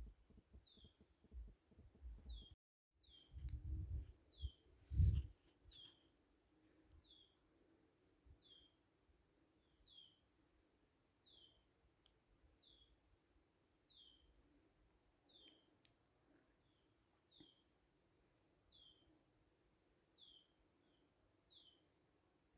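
A bird repeats a faint two-note call, a short high note then a falling one, about once a second. In the first few seconds some low rumbling thumps break in, the loudest about five seconds in.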